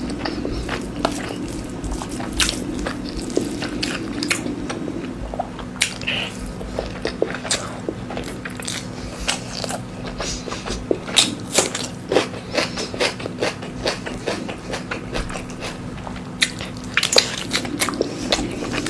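Close-miked eating of Indian food: chewing and wet mouth sounds with frequent sharp clicks and smacks, over a steady low hum.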